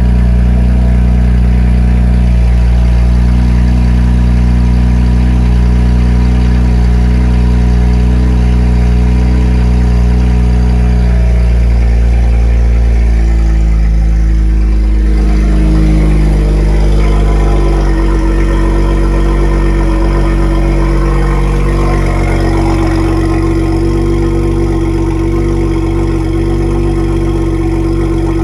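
BMW N54B30 twin-turbo straight-six idling steadily. Its tone changes about halfway through, then holds steady again.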